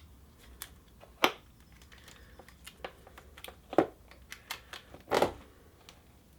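Light clicks and knocks of a throttle cable and its fittings being worked by hand into a motorcycle carburettor bank, with three louder knocks among the lighter ticks, the last one a short rattle.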